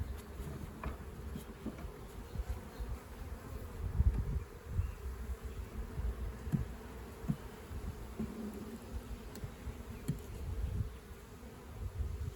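Honeybees buzzing in a steady hum, over irregular low thumps and rumbles, the strongest about four seconds in.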